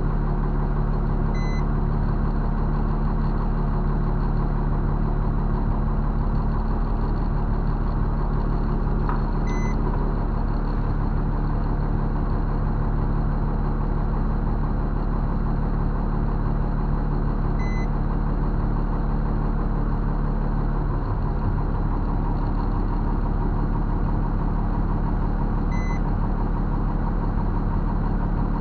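Diesel engine of a 5-ton military 6x6 truck idling steadily. A short, high electronic beep sounds about every eight seconds, four times in all.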